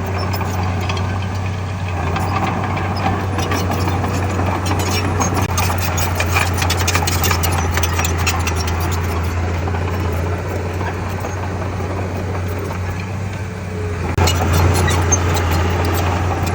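Heavy diesel engine of earthmoving machinery running steadily with a deep drone, with a rapid clatter of small clicks through the middle. It gets louder about fourteen seconds in.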